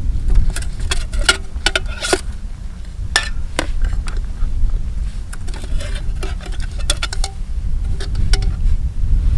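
Irregular small clicks and clinks of things being handled, over a steady low rumble.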